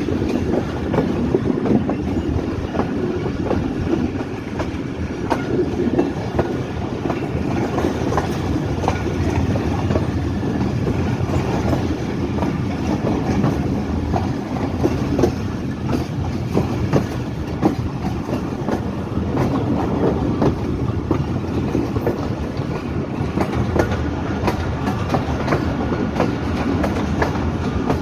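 Passenger train running at speed, a steady rumble with its wheels clattering over the rail joints in frequent clicks, heard from aboard the train.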